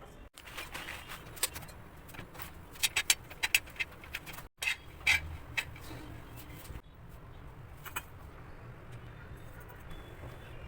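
A scattering of sharp clinks and taps over a low, steady background hum, thickest in the first half.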